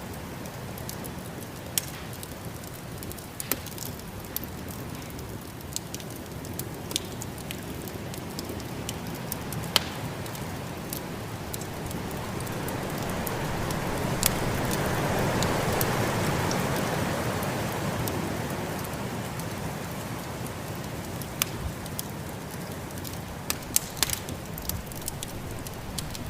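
Wood fire crackling with scattered sharp pops over the steady rush of a snowstorm's wind, which swells into a stronger gust midway and dies back down.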